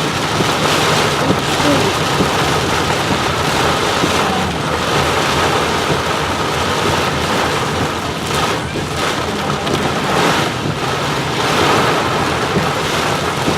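Heavy rain falling on a car, heard from inside it while driving: a steady, loud wash of rain noise.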